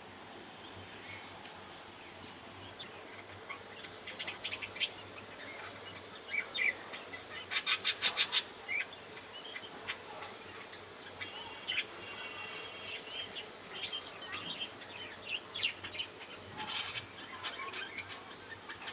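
Five-day-old budgerigar chick chirping in short, high, irregular peeps, with a quick run of sharper chirps about 8 seconds in.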